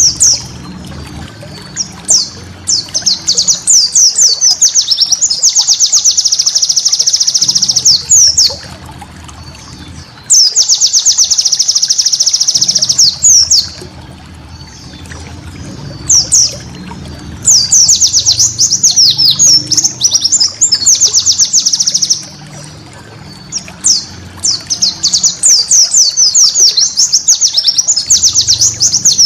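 White-eye (pleci) singing in long, fast twittering phrases of several seconds each, separated by short pauses of one to two seconds. A faint low hum runs underneath.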